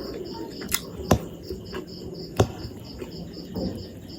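A cricket chirping steadily, about four chirps a second, over soft eating noises with a few sharp clicks.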